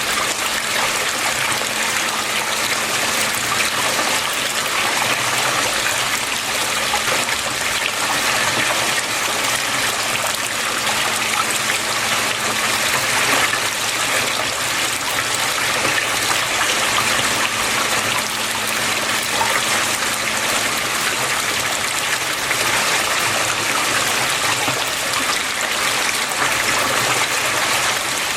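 Water flowing and trickling steadily and without a break, with a faint steady low hum underneath.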